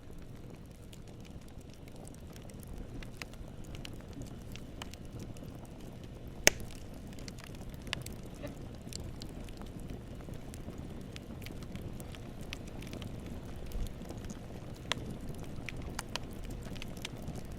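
Campfire burning: a steady low rumble of flames with scattered crackles and pops of burning wood, one pop much louder than the rest about six and a half seconds in.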